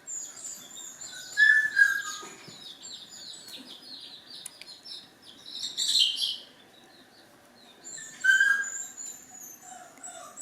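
Birds chirping in quick runs of short, high, repeated notes, with two louder calls about a second and a half in and near the end, and a brief louder burst about six seconds in.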